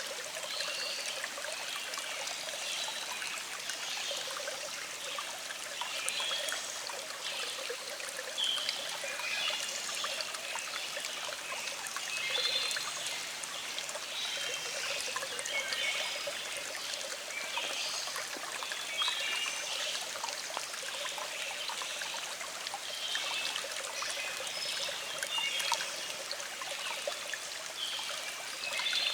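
A small stream trickling and gurgling steadily over rocks, with birds singing in the background: short high chirps come and go throughout.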